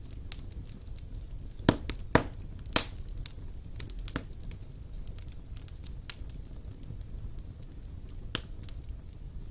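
Wood fire burning in a fireplace: a low steady rumble of flame with scattered sharp crackles and pops of burning logs, the loudest cluster of pops about two seconds in.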